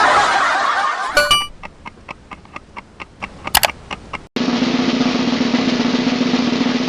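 Music sound effects: a run of quick ticking taps, then a sustained snare drum roll from about four seconds in.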